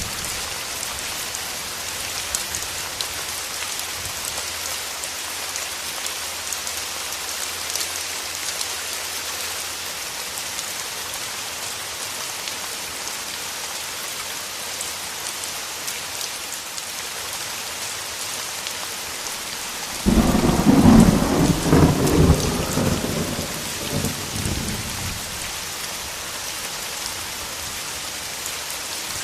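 Steady rain falling, with a sudden loud thunderclap about twenty seconds in that rumbles and fades over the next few seconds.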